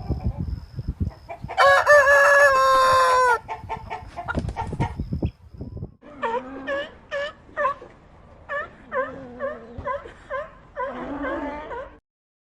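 A rooster crows once, a loud call of about two seconds. From about six seconds in, a chicken clucks in a string of short, repeated calls.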